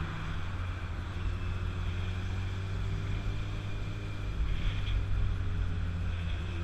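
Motorcycle engine running at a steady cruising speed, with a constant low hum under road and wind noise.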